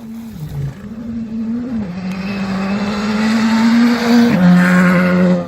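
Rally car engine at full throttle on a gravel stage, its pitch climbing through the gears with quick upshifts about two seconds in and just after four seconds, growing louder as the car nears.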